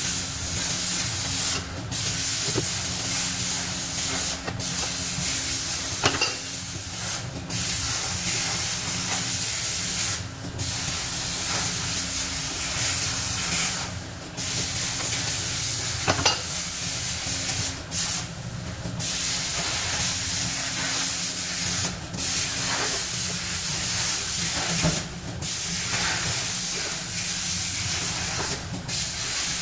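A steady, loud hissing, like air or spray under pressure, cut off briefly every few seconds, over a faint steady hum, with a sharp click about six seconds in and again about sixteen seconds in.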